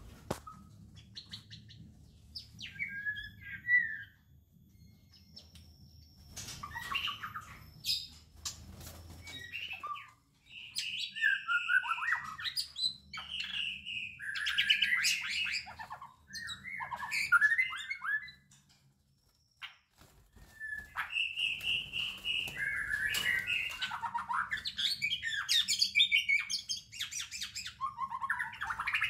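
White-rumped shama (murai batu) singing and calling in bursts of varied, quick-changing phrases, with a brief pause about two-thirds of the way through.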